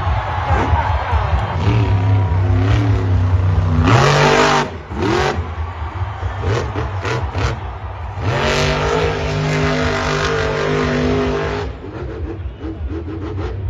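Monster truck engine revving and running under load. The pitch climbs sharply twice, about four seconds in and again about eight and a half seconds in, with the engine running hard in between and easing off near the end.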